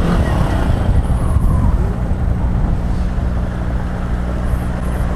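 Honda Bros 160 single-cylinder motorcycle engine running at a steady, moderate speed while riding, its intake snorkel removed, with wind rushing over the helmet microphone.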